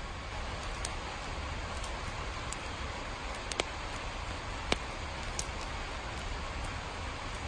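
Steady rain with a low rumble underneath, broken by a few sharp drip-like ticks, the loudest two about halfway through.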